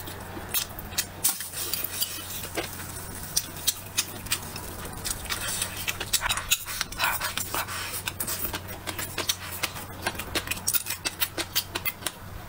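Close-miked eating: wet chewing, lip-smacking and biting into food, with many short sharp clicks throughout. A steady low hum lies underneath.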